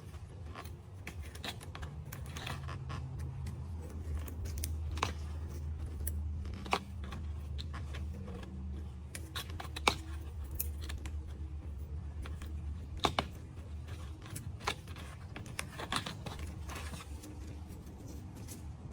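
Scattered small clicks and rustles of handling over a low steady hum, with a few sharper clicks standing out.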